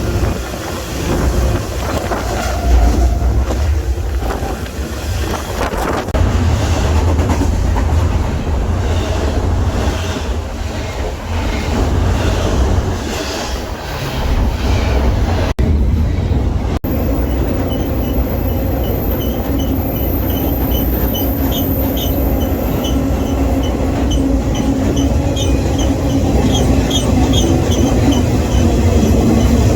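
Freight train rolling along, heard from aboard: a heavy low rumble at first, then, after two brief dropouts about halfway through, a steadier hum with a regular clicking of the wheels and a thin high squeal for several seconds.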